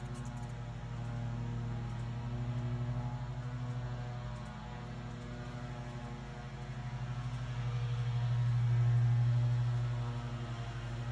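A motor humming steadily with a fine rapid pulse, swelling louder about eight seconds in and then easing back.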